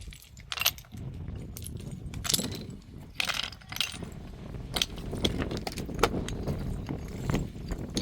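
Irregular metallic-sounding clinks, knocks and short scrapes, a few a second, over a steady low rumble.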